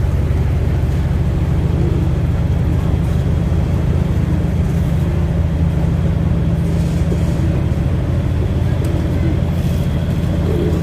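Tugboat engine running steadily under load, a deep, even drone, as it tows loaded coal barges upstream against the current.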